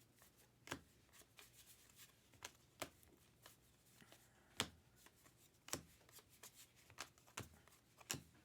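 Faint handling of 2023 Topps Allen & Ginter baseball cards being flipped through one by one: soft rustling with about six sharp card clicks at irregular intervals of a second or two.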